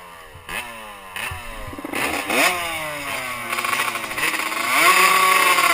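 Small two-stroke motocross bike engine, just kickstarted, being blipped: several short revs rising and falling in pitch, then a longer, louder rev held near the end.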